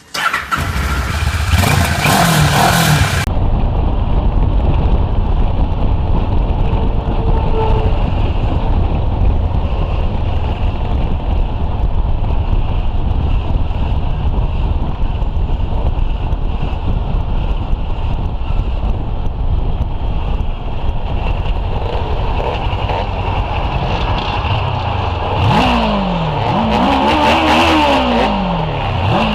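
Motorcycle engine running at low speed with a deep, steady exhaust rumble. A broad hiss sits over it for the first three seconds. Near the end the throttle is blipped several times, the pitch rising and falling with each rev.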